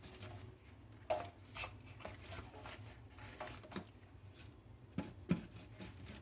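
Irregular handling noises from plastic pieces being moved and set down: soft clicks, taps and rubbing, with a sharper knock about a second in and two more around five seconds in.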